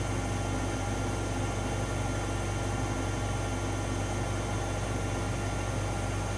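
AEG Electrolux Lavamat L74810 washing machine running with a steady, even hum and several fixed tones that hold their pitch.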